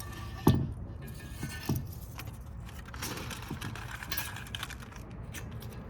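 Small metal parts and components being handled during a teardown: a sharp knock about half a second in, then light clinks and rattles.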